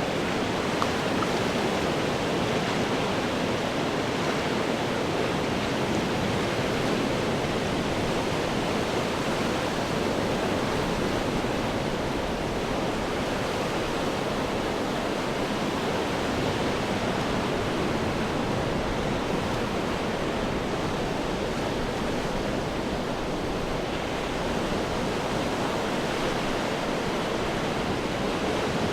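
Ocean surf breaking on rocks, heard as a steady rush of water noise with no single crash standing out.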